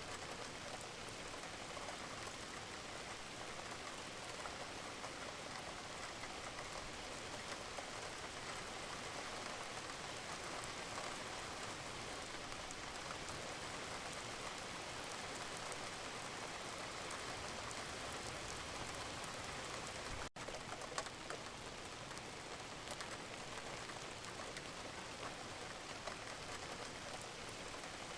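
Steady rain falling, a dense even patter of drops. About two-thirds of the way through, the sound drops out for an instant and comes back with a single sharp tick.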